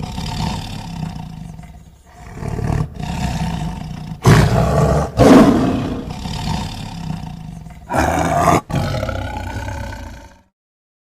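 A big cat roaring: a run of loud, rough, low roars and growls with short breaks between them, stopping near the end.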